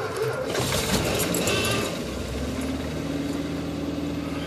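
1986 Dodge Ram van's carbureted engine being cranked by the starter on a very cold restart, with a booster box on the battery. It catches about two seconds in and settles into a steady cold idle.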